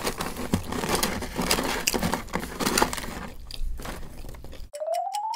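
Close-miked eating sounds: irregular crunching and chewing with crinkling of paper packaging. About four and a half seconds in they cut off suddenly, and a rising electronic tone begins that leads into ticking music.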